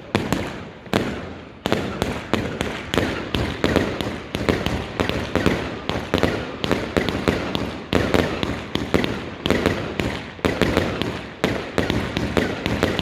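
Fireworks firing a rapid string of sharp bangs, about two or three a second, with no let-up.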